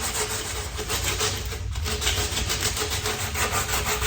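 Sandpaper rubbing on a pine log by hand, with quick back-and-forth strokes of about four a second. Coarse 60-grit paper is smoothing down sharp, splintered edges around a pulled-out limb.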